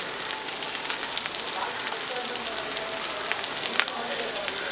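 Onions, ginger-garlic paste and green chillies frying in oil in a metal pot: a steady sizzle with many small crackles, and one sharper pop a little under four seconds in.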